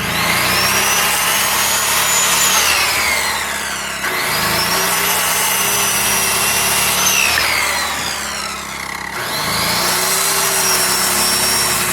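Power saw cutting through a 2x4 three times in a row, making 11-inch blocks. Its motor whine dips in pitch as each cut loads it, then picks up again.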